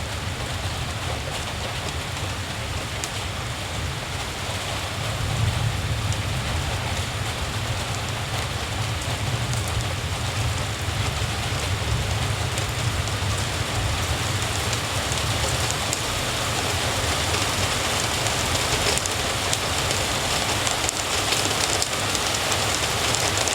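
Steady rain falling, with a low, steady rumble underneath. The rain grows a little louder about five seconds in, and separate drops tick more clearly near the end.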